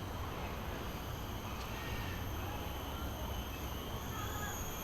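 Steady outdoor background with a low rumble and a few faint bird chirps.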